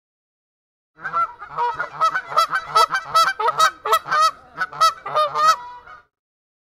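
A flock of geese honking: a rapid, overlapping run of many honks that starts about a second in and stops near the end.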